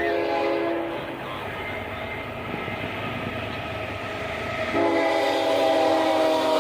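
Locomotive air horn sounding a short blast, then a longer blast starting about five seconds in, over the steady running rumble of a train.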